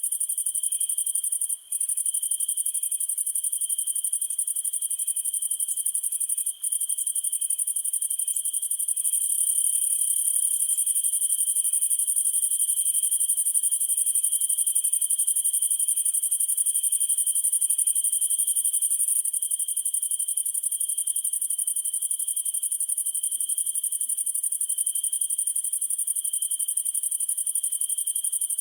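Summer night chorus of crickets trilling steadily, over a constant high-pitched insect hiss. A fainter chirp repeats about twice a second through the first two-thirds. The sound briefly cuts out twice, at about one and a half and six and a half seconds in.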